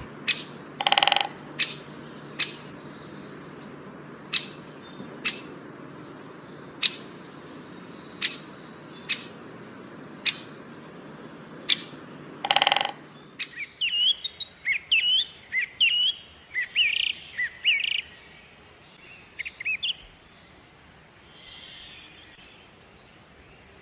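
Birds calling: sharp, short chip notes about once a second, with two longer calls, over a steady low background. About 13 seconds in, the background drops away and a quick warbling song of rising and falling notes follows, fading out near the end.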